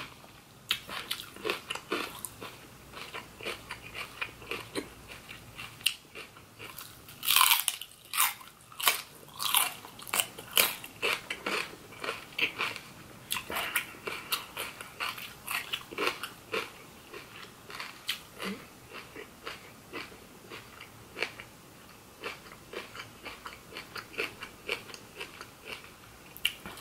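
Crisp crunching bites and chewing of raw vegetables, a run of short crunches, loudest and densest about seven to eleven seconds in.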